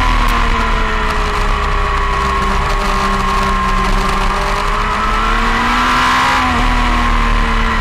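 Motorcycle engine heard from an onboard camera at speed, with wind rushing over the microphone. The engine note falls slowly as the bike slows into a long corner, holds steady through it, and begins to rise near the end as it drives out.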